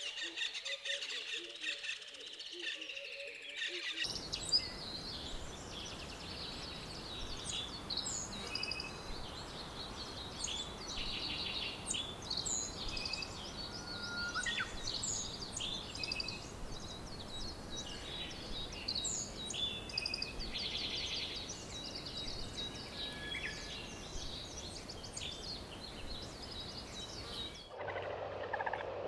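Many birds chirping and trilling, short calls overlapping over a steady hiss of forest ambience. The background changes abruptly about four seconds in and again near the end.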